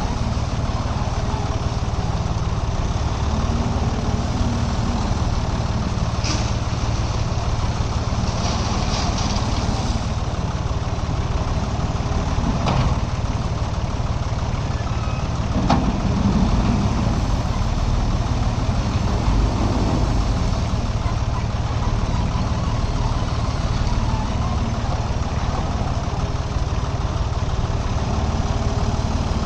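Heavy diesel engine running steadily at the loading site, with a few sharp knocks, the loudest about 16 seconds in.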